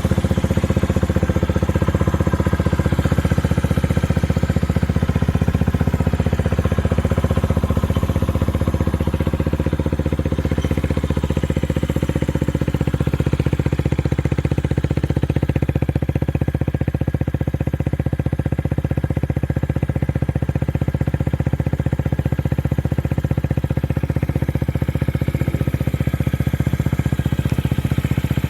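Honda Ape 50's air-cooled single-cylinder four-stroke engine idling steadily through a BEAMS aftermarket muffler.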